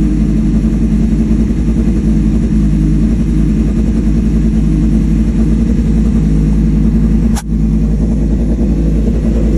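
2003 Suzuki GSX-R 750's inline-four engine idling steadily through its aftermarket M4 muffler, fired up right after an oil and filter change. A single sharp click with a brief dropout comes about seven and a half seconds in.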